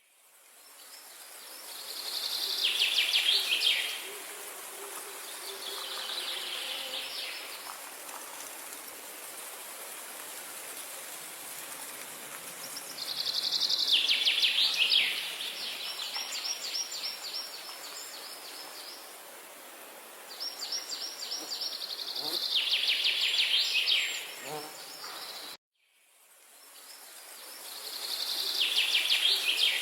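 A songbird singing several fast, high trilled phrases, one every several seconds, over a steady high hiss of insects and outdoor ambience. The sound cuts out briefly near the end.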